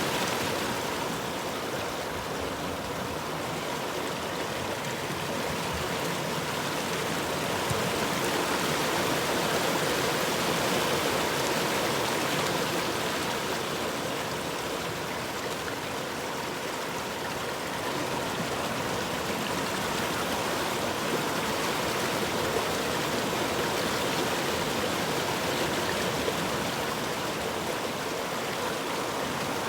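River water flowing steadily, a continuous rushing with slow, slight rises and falls in level.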